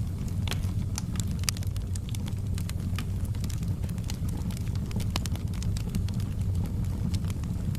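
Wood fire burning in a fireplace: many irregular sharp crackles and pops over a steady low rumble.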